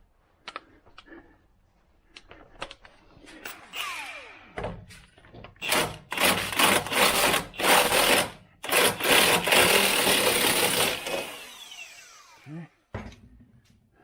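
A handheld power tool running in two loud bursts of a few seconds each, then winding down with a falling whine. Before it come a few scattered clicks of tools being handled.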